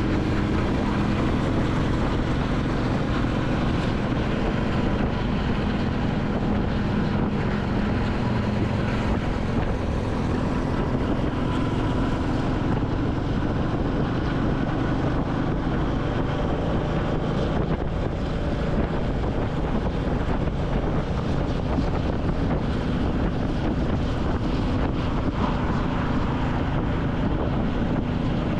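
Royal Enfield Classic 350 single-cylinder engine running under way, with wind buffeting the microphone. The engine note shifts about twelve seconds in as the bike changes speed.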